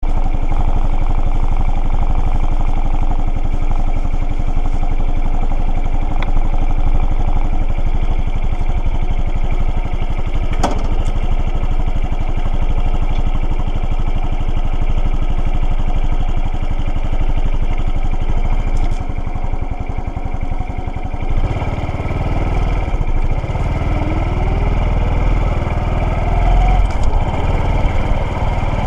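Motorcycle engine idling steadily, with a single sharp click about ten seconds in. A little over twenty seconds in, the bike pulls away: the low rumble grows heavier and the engine note rises in pitch as it accelerates.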